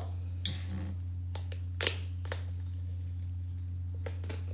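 A steady low hum with a few faint, short clicks scattered through it, about five in all.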